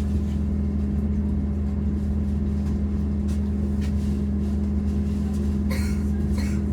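Inside a MAZ-203T trolleybus under way: a steady electric hum from the drive. Two short rattles near the end.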